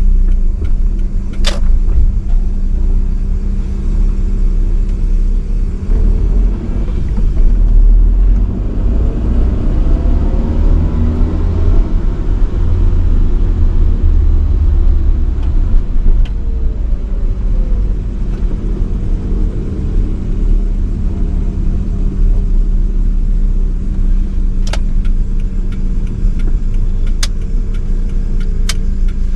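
A 1985 Nissan Sunny B12 driving, with steady engine and road rumble. Midway, the engine pitch rises and falls back, and there are a few sharp clicks near the start and toward the end.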